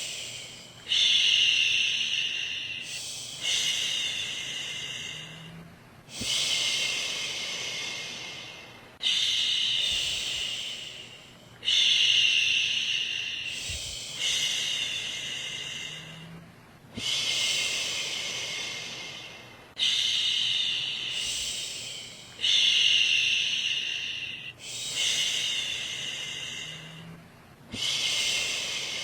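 A woman shushing, "shhh", over and over to soothe a baby to sleep. The shushes come about every two to three seconds, each one starting loud and fading away.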